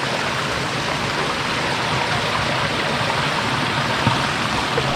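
Forest stream rushing over rocks: a steady, even rush of water.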